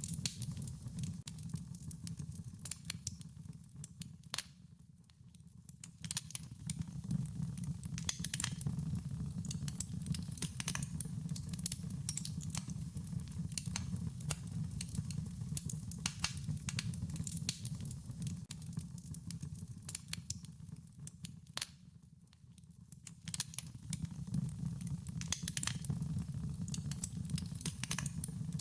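Wood fire crackling: a run of sharp irregular pops and snaps over a low steady rumble of flames. It fades quieter twice, once about five seconds in and again near the last quarter, then comes back up.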